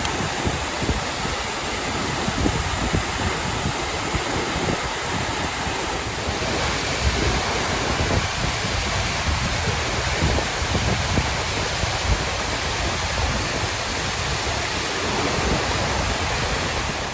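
Steady rush of a high waterfall close by, heavy falling water throwing spray, with uneven low buffeting on the microphone.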